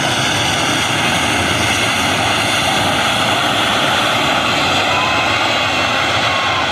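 A passenger airliner's engines running loud and steady: a broad rush of noise with high steady whining tones over it.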